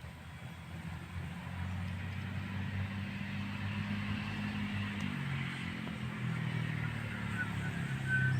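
A motor vehicle's engine drone that grows louder after the first second or so and then holds steady, with a few faint high chirps near the end.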